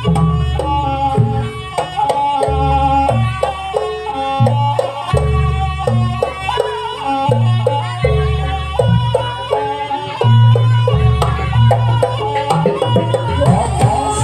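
Live Banyuwangi jaranan-style traditional music: heavy low drum strokes under a stepped melody from a lead instrument.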